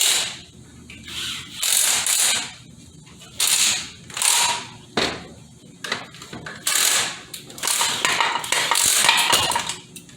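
Ratchet wrench clicking in a series of short bursts, stroke after stroke, while undoing fasteners during a Ford AOD transmission teardown.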